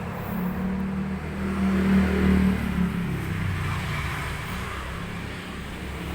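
A motor vehicle's engine passing close by, growing to its loudest about two seconds in and then fading away.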